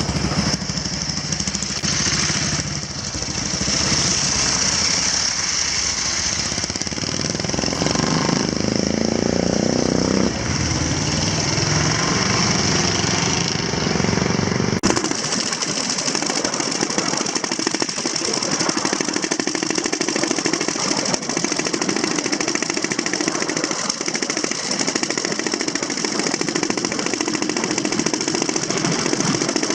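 Antique motorcycle engines running. About fifteen seconds in, the sound changes abruptly and the deep low end drops away.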